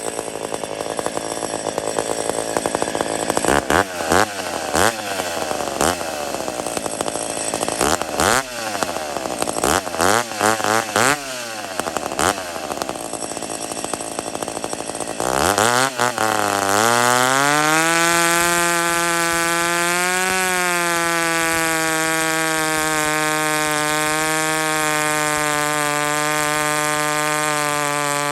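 Ported two-stroke McCulloch chainsaw bucking wood, revved up and down repeatedly through the cuts. About halfway through it drops in pitch and settles into one steady, even running note.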